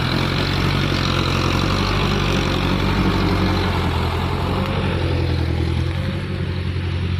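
Diesel truck engine running with a steady low drone and clatter above it, easing off a little about six seconds in.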